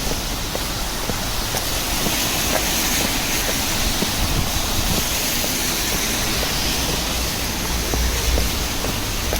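Steady hiss of rain on a city street, with scattered light drip taps over a low rumble.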